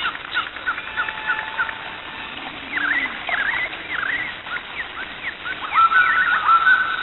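Birds chirping and calling: quick short notes at first, swooping calls about halfway, and a run of sharp repeated notes near the end.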